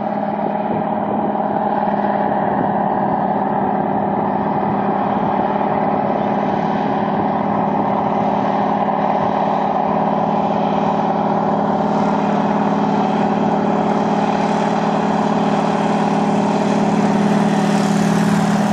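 An engine running at a steady, unchanging speed: a continuous drone of fixed hum tones, with a rushing hiss that grows louder toward the end.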